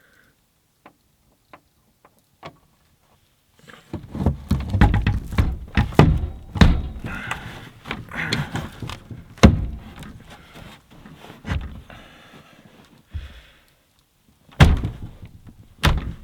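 Pickup truck tailgate, frozen in sub-zero cold, being worked by hand: a long run of thuds and knocks starting about four seconds in, with two loud sharp bangs near the end.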